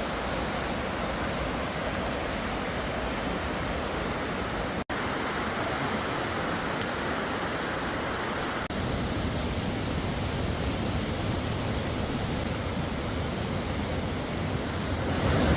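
Mountain stream water rushing over rocks in a steady, even hiss. It drops out for an instant about five seconds in, and after a cut near nine seconds the low rumble is stronger.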